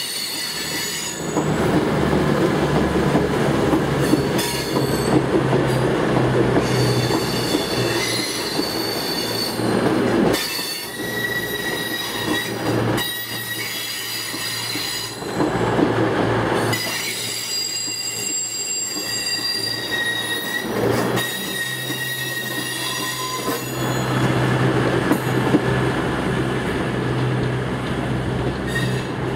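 CrossCountry diesel multiple units, a Class 170 Turbostar and Voyagers, departing over pointwork: underfloor diesel engines give a steady low drone, and high-pitched wheel flange squeal comes and goes as the wheels take the curves.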